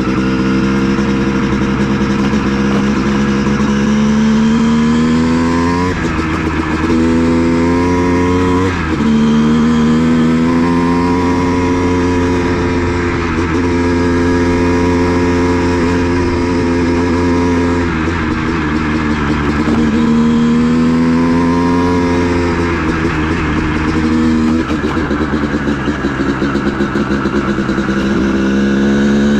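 Honda CR250 two-stroke dirt bike engine being ridden, its pitch climbing under throttle and dropping back several times as the rider shifts and eases off.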